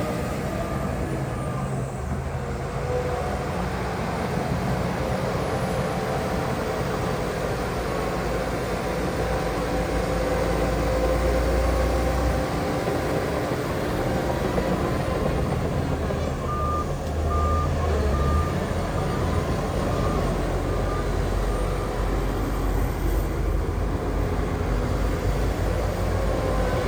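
Diesel engines of heavy earthmoving machines, dump trucks and a bulldozer, running steadily and swelling now and then. A reversing alarm sounds a run of short, evenly spaced beeps about two-thirds of the way in.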